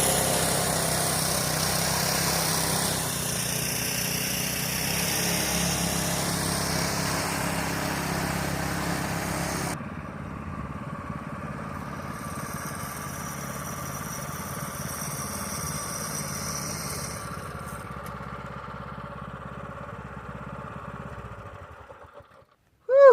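Harbor Freight Predator 212 single-cylinder four-stroke engine running steadily. About ten seconds in, the sound cuts abruptly to a quieter, duller engine sound, which fades away near the end.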